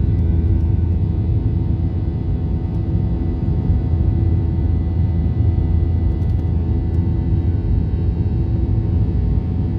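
Airliner engines during take-off: a loud, steady low rumble with a few constant engine tones held above it.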